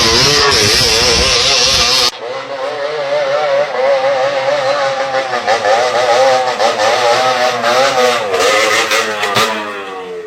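Motorcycle engine revving, its pitch wavering up and down repeatedly; the sound changes abruptly about two seconds in, and near the end the pitch drops away.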